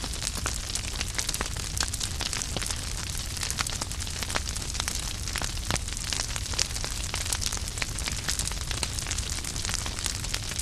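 Wood fire crackling in a fireplace: a constant rush of flame with many sharp pops and snaps from the burning logs, scattered irregularly throughout.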